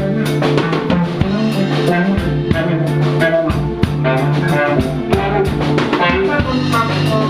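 Live band playing an instrumental groove: a drum kit keeping a steady beat under electric guitar and a moving bass line.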